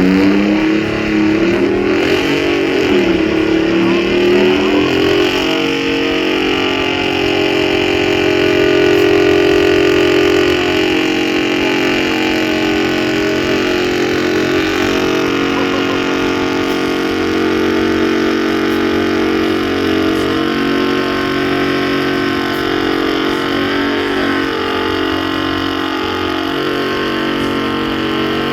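Truck engine revving up unevenly for the first few seconds, then held at steady high revs.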